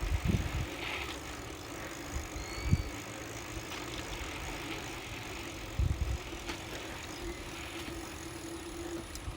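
Wind buffeting the phone's microphone, with steady tyre hum, as a bicycle coasts fast downhill without pedalling.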